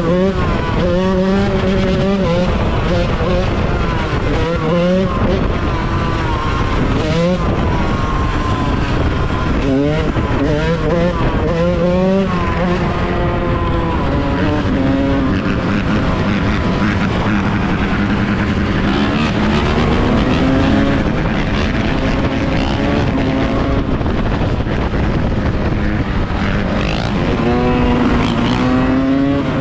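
Yamaha YZ125 two-stroke dirt bike engine being ridden hard, its pitch climbing and dropping again and again through the first half as the throttle is worked. It then runs at a steadier pitch with slow rises, and climbs again near the end.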